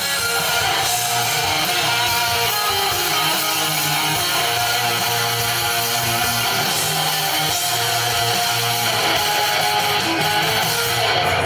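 A live band playing an instrumental passage between vocal lines, with strummed electric guitar to the fore over bass.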